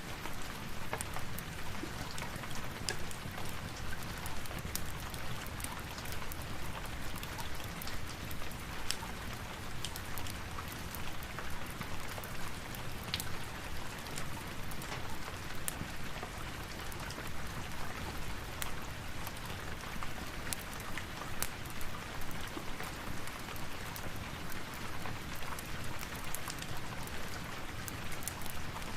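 Steady rain falling, a dense even hiss scattered with many sharp little ticks of single drops.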